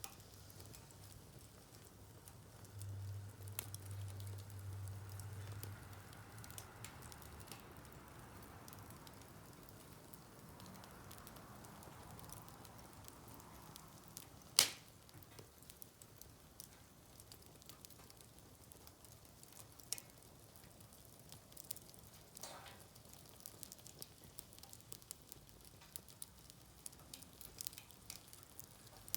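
Wood fire crackling faintly, with scattered small pops and one sharp pop about halfway through. A low hum sounds for about three seconds, starting about three seconds in.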